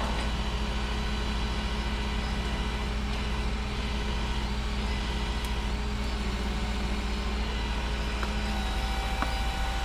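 A vehicle engine idling steadily, a low even drone that does not change.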